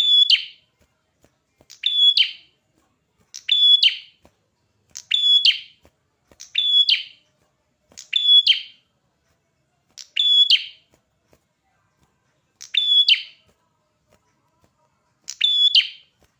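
A red-headed perenjak, a small warbler-like songbird, calling briskly: nine short, sharp, high chirps spaced a second and a half to two and a half seconds apart, with a longer pause about two-thirds of the way through.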